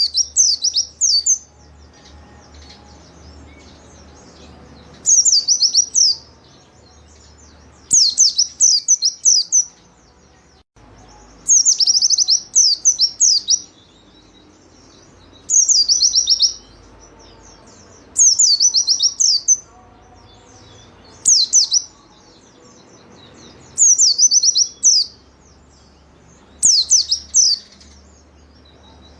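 White-eye (pleci) singing in short, rapid bursts of high, quickly falling chirps, about a second each and repeated every two to three seconds. A faint low hum runs underneath.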